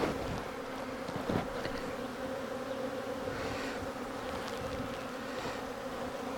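Honey bees from an opened hive buzzing in a steady mass hum, with a faint tap about a second and a half in.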